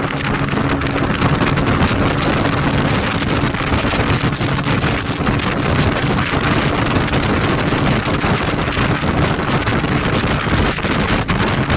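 Dayun 150 cc motorcycle running at speed, its engine note partly buried under steady wind rush on the microphone.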